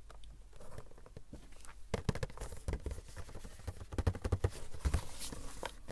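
Hands handling a Funko Pop figure's box: quick, irregular taps and clicks on the cardboard and plastic packaging, getting busier about two seconds in.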